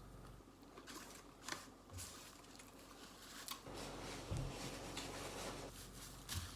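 Faint chewing and mouth sounds of someone eating a bite of a fried chicken sandwich, with scattered soft clicks and a few short low thumps.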